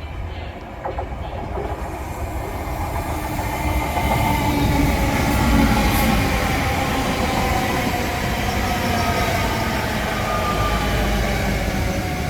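Train moving through the station: its rumble grows over the first four seconds and then holds steady, with faint drawn-out whining tones over it that slowly drop in pitch.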